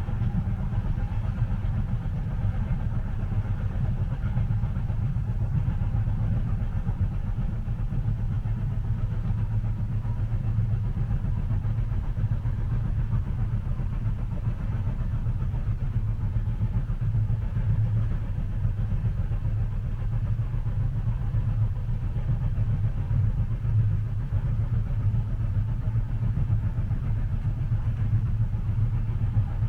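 Steady low rumble of a moving train heard from inside the passenger cabin, even and continuous throughout.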